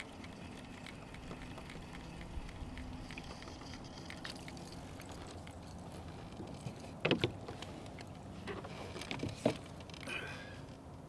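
Wind on the microphone and water around a fishing kayak, with a faint low steady hum. Two sharp knocks stand out, about seven and nine and a half seconds in.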